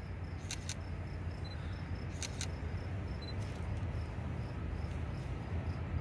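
Low, steady rumble of an approaching train, still at a distance and growing slightly louder. Insects chirp in a regular tick about three times a second, and two pairs of sharp clicks come about half a second and two seconds in.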